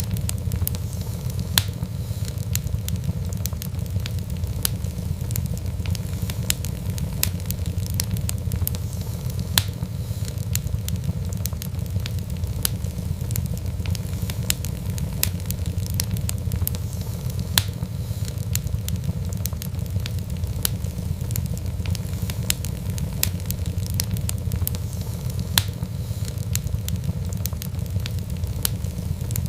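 Fireplace fire crackling steadily, with a constant low rumble of flames and frequent sharp, irregular pops.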